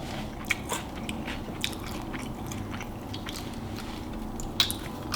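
Close-miked chewing of Hot Cheetos noodles: soft, scattered wet mouth clicks, with a sharper click about four and a half seconds in.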